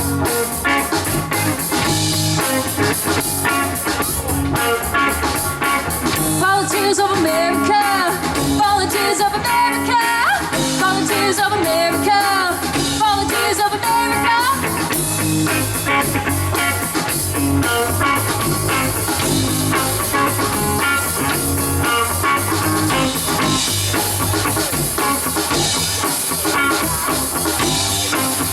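Live rock band playing a psychedelic rock cover, with drum kit and guitar keeping a steady beat. A wavering lead melody rises and falls over the band for several seconds in the middle.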